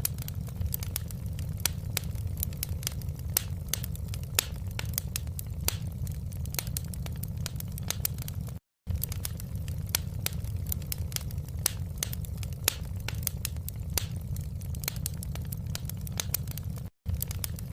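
Wood fire burning in a fireplace: irregular crackles and sharp pops over a steady low rumble. The sound cuts out completely for a split second twice, about halfway through and near the end.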